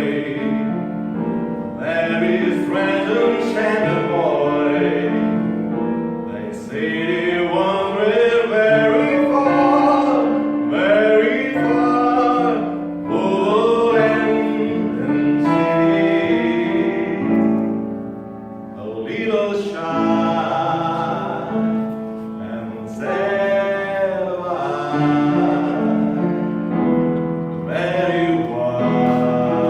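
Singing with piano accompaniment: a slow song with long held notes over sustained low piano chords.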